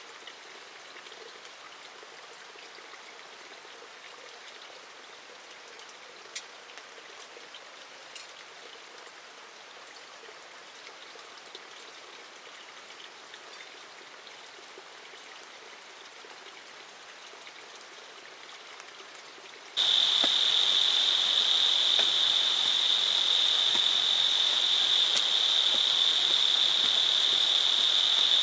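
Steady rain falling in rainforest, with a few louder single drops landing close by. About 20 seconds in, it cuts abruptly to a loud, steady, high-pitched insect chorus, one unbroken shrill tone over a noisy background.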